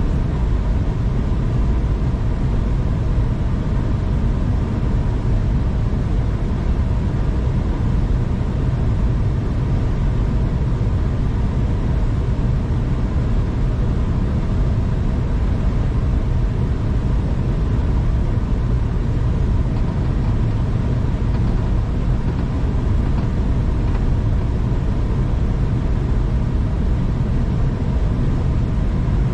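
V/Line passenger train running at speed, heard from inside the carriage: a steady, loud low rumble of wheels on rail with a faint hum over it.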